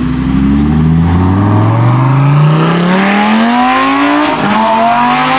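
A car accelerating hard with its engine revving steadily higher through a gear. About four seconds in the revs drop sharply at an upshift, then climb again.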